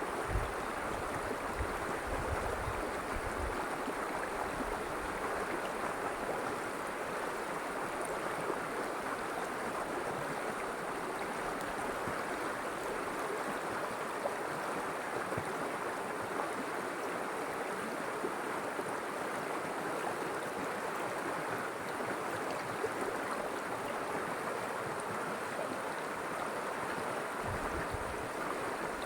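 River water flowing: a steady, even rush. Brief low rumbles occur in the first few seconds and again near the end.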